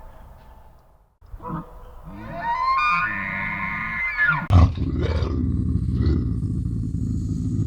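An animal's drawn-out pitched call, then from about halfway a loud, low, rough growl that continues.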